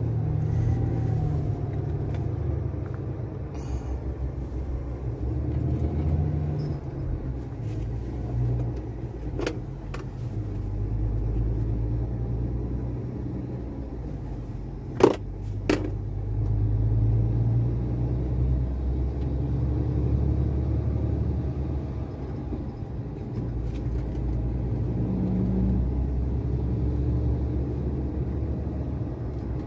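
Iveco gas truck's engine running with a low rumble that rises and falls, with two sharp clicks about halfway through.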